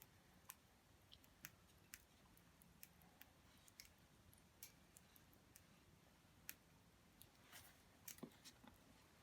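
Near silence, broken by faint, irregular crackles and pops of a small wood fire, a few clustered near the end.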